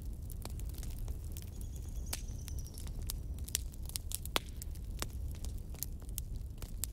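Wood fire crackling: irregular sharp pops and snaps over a low steady rumble, with a faint high whistle sliding slightly down for about a second, starting about a second and a half in.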